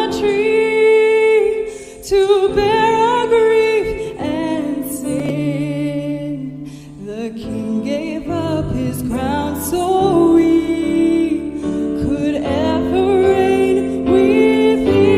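A woman singing a hymn with vibrato, over piano accompaniment and held low instrumental notes. The music eases briefly about two seconds in and again around the middle.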